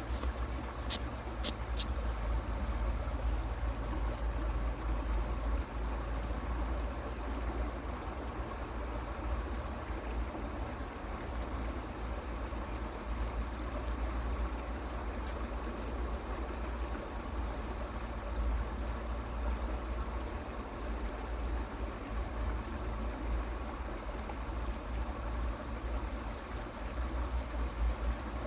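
Creek water flowing steadily over stones, with a constant low rumble underneath and a few small ticks about a second in.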